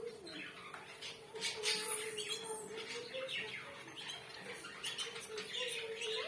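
Zebra finches calling and chirping, many short, high calls overlapping from several birds.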